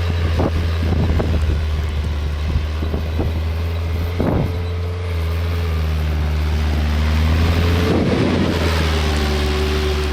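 Engine of snow-clearing machinery running steadily with a deep hum, with a few clanks and rattles, the strongest around four and eight seconds in.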